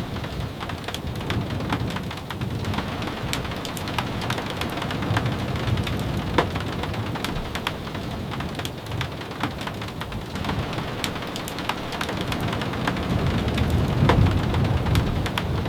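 Steady rain falling, with many scattered sharp clicks of drops striking and a low rumble that swells near the end.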